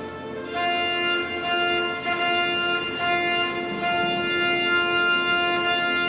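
Organ playing slow, held notes and chords that swell louder about half a second in.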